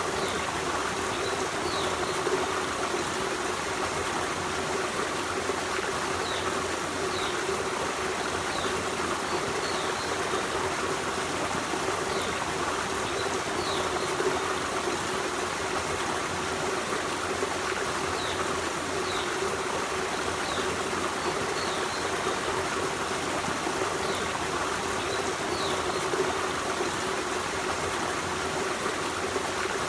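Forest stream running steadily, an even rush of flowing water without pauses. Faint short high chirps recur every second or two.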